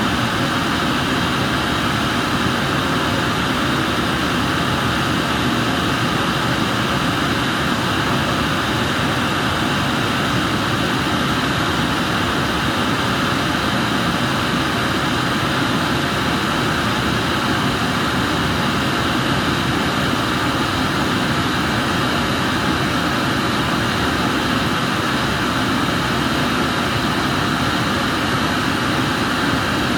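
Steady roar of a glassblower's gas burner flame running continuously, with no change in level.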